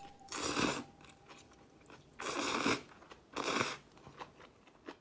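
Crunching of crisp food being bitten and chewed, in three short bursts about a second apart.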